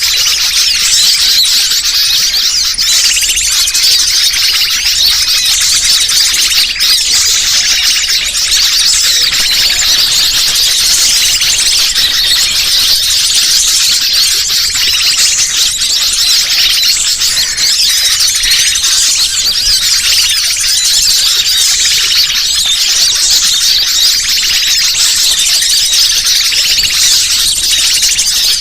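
Bird-lure (pikat) recording: a dense, unbroken chatter of high-pitched small-bird calls, meant to draw wild birds in.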